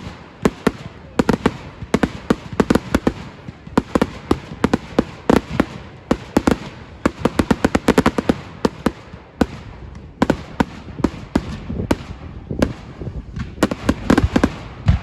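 Fireworks display going off: a dense, irregular run of sharp bangs and pops, often several a second in quick clusters.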